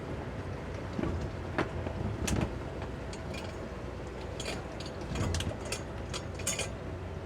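Towboat's 200 hp Suzuki outboard motors running steadily under tow load, with scattered short knocks and splashes over the engine hum.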